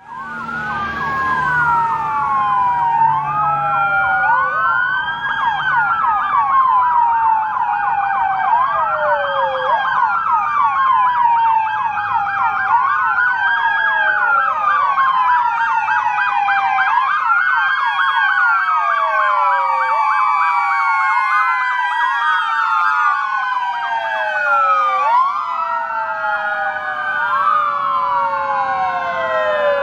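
Several emergency-vehicle sirens, from police cars and a fire engine, wailing together out of step, their rising and falling tones overlapping throughout. An engine hums low underneath for the first few seconds.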